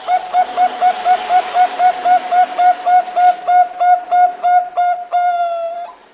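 Zebra dove (perkutut bangkok) singing: a quick string of short, clear cooing notes, about four a second, ending in one longer held note near the end.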